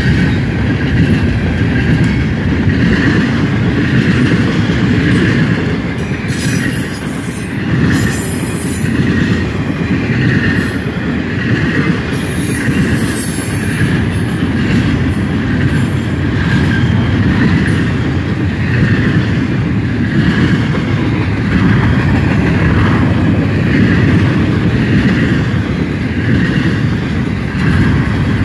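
Double-stack intermodal well cars of a Canadian National freight train rolling past: a steady rumble and clatter of steel wheels on the rails. Brief high wheel squeal comes through twice, a few seconds apart, about a quarter and half way through.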